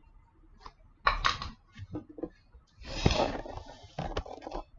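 Scattered light clicks and a couple of brief scraping rustles, like plastic toys being handled and set down.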